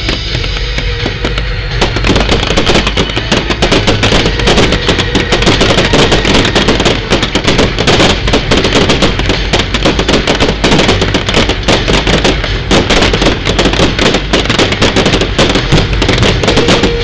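Fireworks display: a dense, rapid string of bangs and crackles that thickens about two seconds in and stays loud and continuous.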